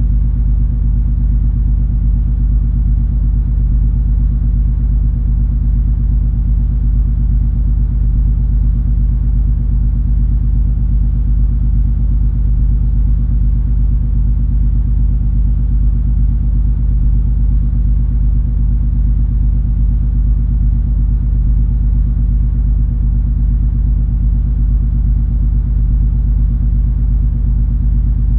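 Steady deep rumble of the cruise ferry MS Color Magic under way, its engines and machinery giving a constant low drone with a steady hum.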